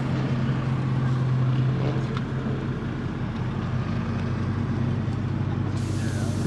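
Car engine running at a steady speed, a low even hum that eases slightly a couple of seconds in.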